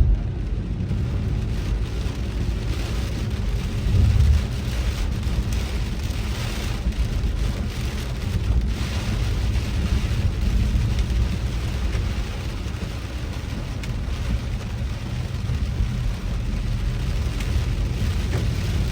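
Heavy rain falling on a moving car, over a steady low rumble of the car and its tyres on the wet road, with a brief louder bump about four seconds in.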